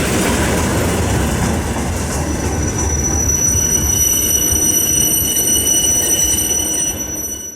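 Train passing close by: a steady rumble of wheels on rails, joined about two seconds in by thin, high, steady squealing from the wheels. The sound cuts off suddenly at the end.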